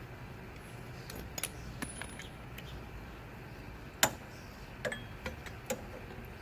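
Scattered light metallic clicks and clinks of socket tools being handled, with one sharper click about four seconds in: a socket being swapped off its extension onto a breaker bar.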